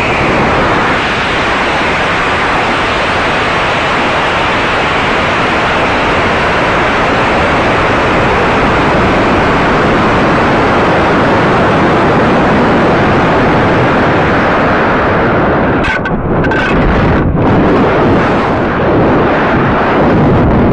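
Amateur rocket launch: a loud, steady rushing roar that starts abruptly and holds for about twenty seconds, with a few brief dropouts near the end.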